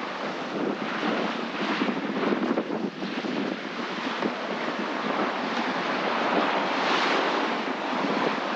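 Wind buffeting the microphone over the rush of open-sea water around a sailboat running downwind in breaking waves, the rush swelling louder about seven seconds in.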